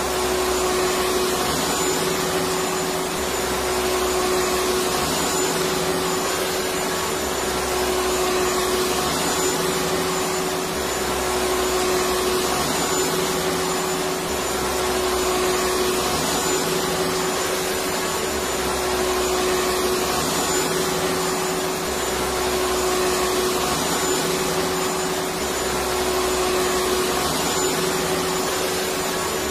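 Electric vacuum cleaner running steadily: a constant motor whine over airflow hiss, with a low hum that swells and fades every few seconds.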